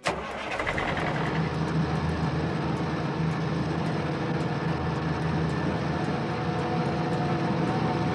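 Truck engine sound effect: a steady running engine hum over rumbling road noise, starting abruptly.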